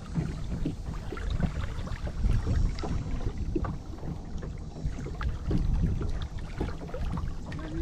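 Small boat on the water: an uneven low rumble of water and wind on the hull and microphone, with scattered small knocks and clicks.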